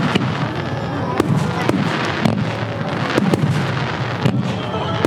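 Aerial fireworks shells bursting in quick, irregular succession: many sharp bangs overlapping one another, with crackle between them.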